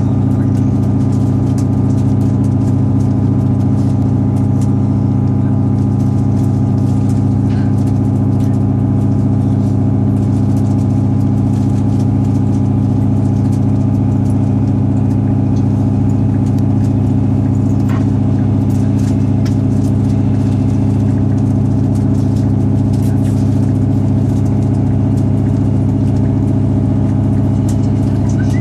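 Steady running noise of a train heard from inside the carriage: a constant low drone and hum at an even level, with a few faint clicks.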